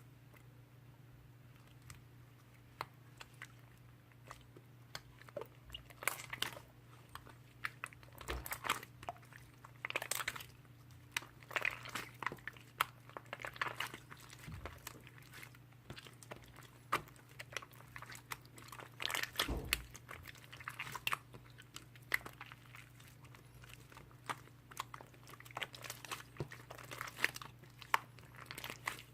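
Slime being pressed, folded and stretched by hand, giving irregular sticky clicks and crunchy crackles, busier in a few stretches.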